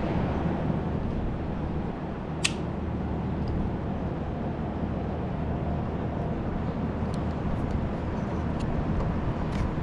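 Steady low workshop hum, with one sharp click about two and a half seconds in and a few faint ticks near the end, from small steering-column parts being handled and pulled out.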